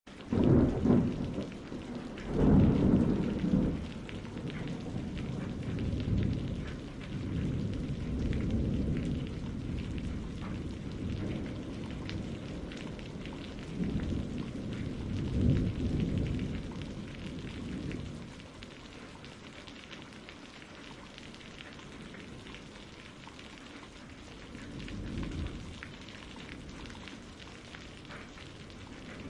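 Steady rain with low, rolling thunder rumbles that swell and fade several times, the loudest in the first few seconds and a quieter spell of rain alone past the middle.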